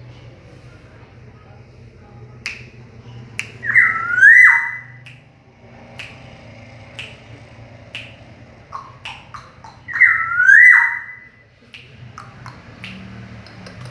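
Black-naped oriole giving two loud calls about six seconds apart, each sliding up, holding, then dropping off, with short sharp clicks between them.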